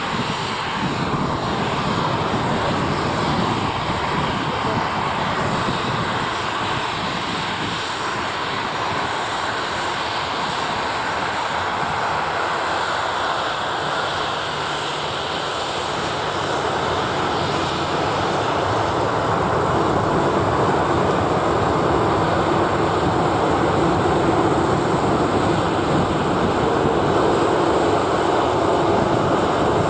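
Boeing 737-800's CFM56-7B turbofan engines running with a steady rush and a high whine, growing louder in the second half.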